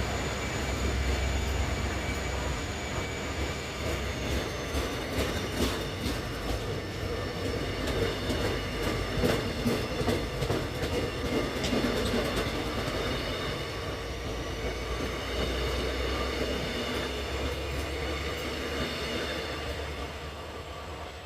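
Mugunghwa-ho passenger train pulling out behind a diesel locomotive: a steady low drone with the wheels clicking over rail joints, the clicks thickest from about four to twelve seconds in. The sound slowly fades near the end.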